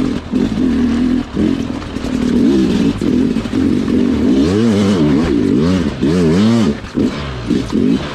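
Sherco two-stroke dirt bike engine being ridden, revving up and down in repeated short throttle bursts with brief cuts off the throttle between them.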